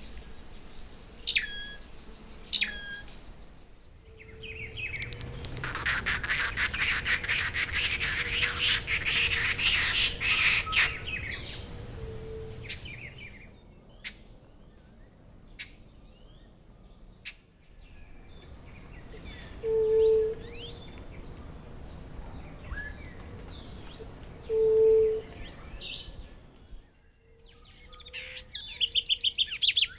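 Several different wild birds singing and calling in a row: a few sharp falling whistles, then a dense, fast chattering song for several seconds, then scattered high calls with two short low hoots about five seconds apart, and a burst of rapid high notes near the end.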